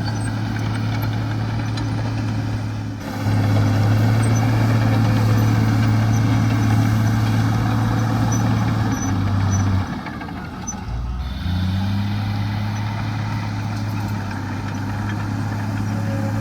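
Heavy diesel engine of earthmoving machinery running under varying load. It gets louder about three seconds in, eases off near ten seconds, then picks up again with a rising pitch.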